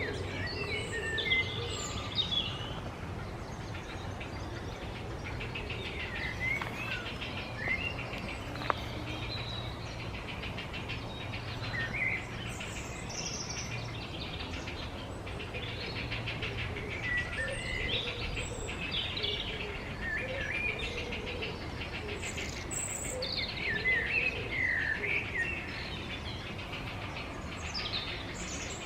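Outdoor birdsong: many short chirps and trills from several birds, some with rapid rattling notes, over a steady low hum.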